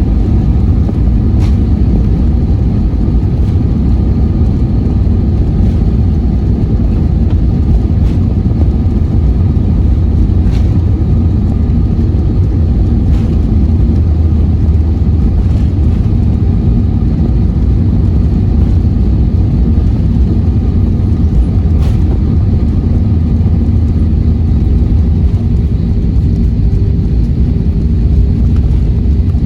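Cabin noise inside an Airbus A321-231: a loud, steady low rumble of the engines and airflow, with a faint knock every two to three seconds, typical of the wheels rolling over pavement joints while taxiing. A steady hum rises out of the rumble near the end.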